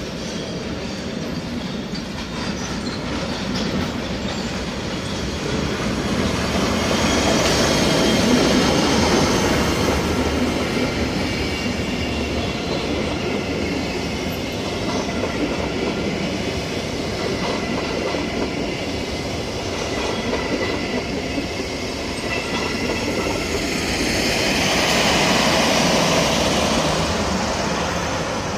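SBB passenger train running through the station, its steel wheels rumbling and clattering on the track with a faint squeal. The noise swells loudest about eight seconds in and again around twenty-five seconds.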